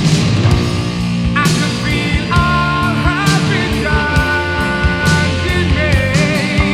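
Heavy metal band playing an instrumental passage: an electric lead guitar plays long held notes with bends and vibrato over driving drums and bass.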